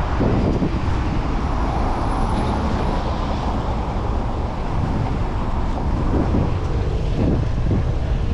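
Wind rushing over the microphone of a bike-mounted camera while riding through city traffic, a steady low rumble of wind and road noise with vehicles passing; one vehicle grows louder about one to three seconds in.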